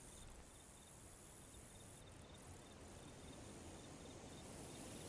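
Faint insect chirping: a soft, high pulse repeated many times over a low background hiss.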